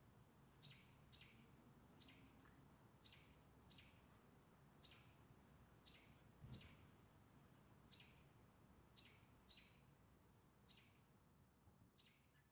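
A bird calling faintly, a sharp chip note over and over, about one a second at uneven spacing, each note a quick downward sweep.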